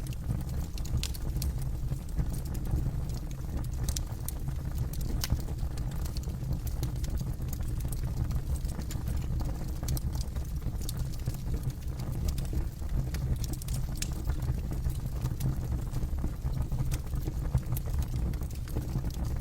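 Campfire burning with a steady low rumble and frequent sharp crackles and pops scattered irregularly.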